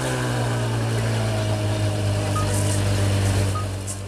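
Ferrari 599 GTO's V12 idling steadily, settled just after its start-up rev has died away; it drops away near the end.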